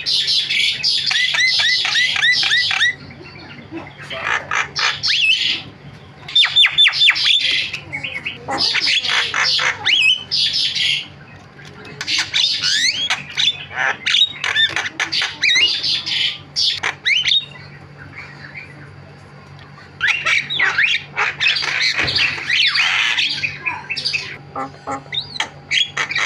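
Javan myna singing a loud, chattering song of harsh squawks, whistles and trills in bursts, with short pauses between them and runs of quick repeated whistle notes.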